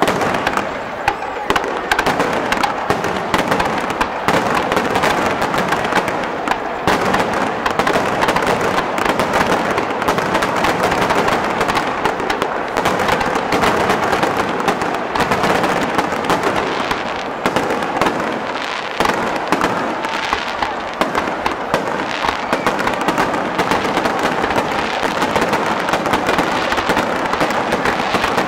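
Aerial firework shells bursting in quick succession, a dense, continuous crackle of many bangs and pops without a break.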